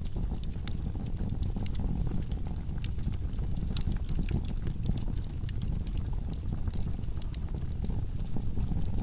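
Wood logs burning in a fireplace: a steady low rumble of the fire with frequent, irregular sharp crackles and pops.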